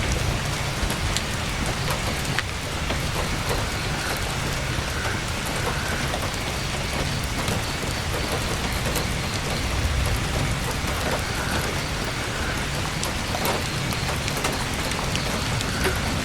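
Heavy rain pattering steadily on tent canvas, with a low rumble underneath and scattered sharp little clicks.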